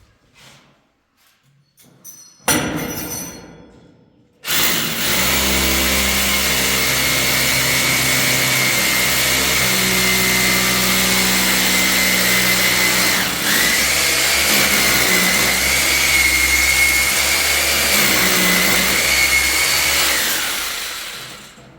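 A single knock, then an electric power tool starts about four seconds in and runs steadily with a high whine for about sixteen seconds. It dips briefly midway and winds down near the end.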